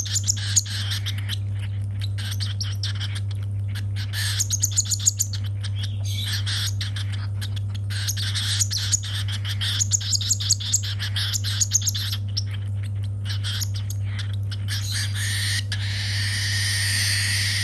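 Baby cockatiel chick giving its raspy, rapid begging calls while being hand-fed, in runs of fast clicky pulses, over a steady low hum.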